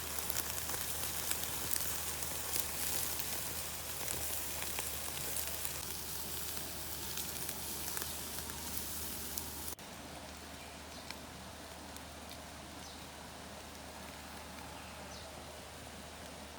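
Meat sizzling and crackling over a charcoal barbecue. About ten seconds in it cuts abruptly to a quieter, steady rushing noise.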